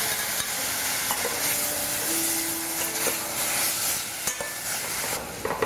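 Chicken pieces and sliced mushrooms sizzling in hot oil in a stainless steel saucepan, stirred with a metal spatula that scrapes and ticks against the pan. The sizzle thins out near the end.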